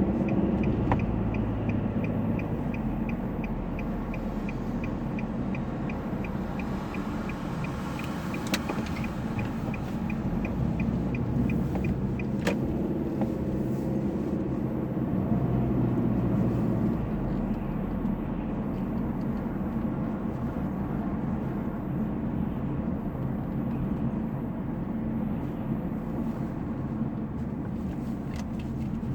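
Steady low rumble of cars, with a regular light ticking about twice a second that stops about twelve seconds in.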